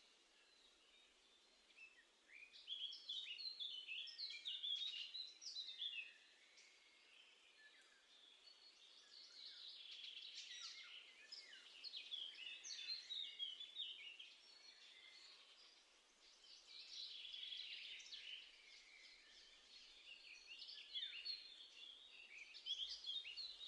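Wild songbird singing: four phrases of quick, high twittering notes, each a few seconds long, with short pauses between.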